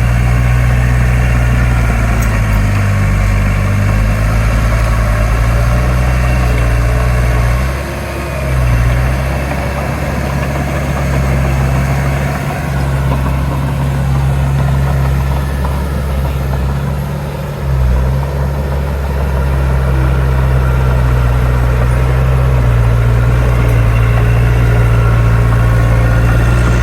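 Heavy diesel engine of earthmoving machinery running steadily, with its note dipping and shifting about 8 seconds in and again around 17 seconds.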